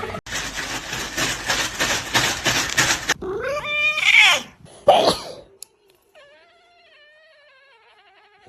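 Domestic cat yowling: after a few seconds of rough rustling noise, a loud drawn-out meow rises and falls, a shorter call follows about a second later, and a faint wavering cry ends it.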